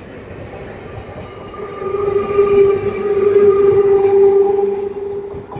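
Electric multiple-unit (EMU) local train moving past at close range, its wheels rumbling on the track, with a steady horn-like tone that swells about two seconds in and fades near the end.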